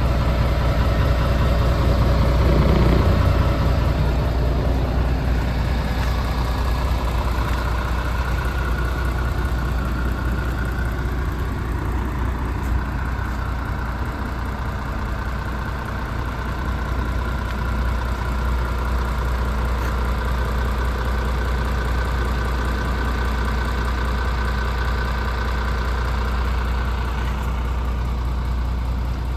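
MAN TGX 26.470's 470 hp six-cylinder diesel engine idling steadily, with a brief swell in level about three seconds in.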